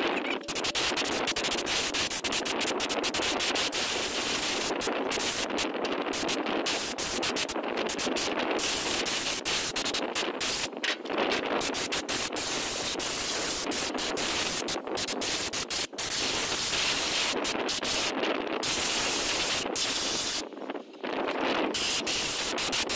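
Compressed air from a blow gun hissing steadily as it blows dust out of a truck's engine bay, with a few brief breaks, the longest near the end.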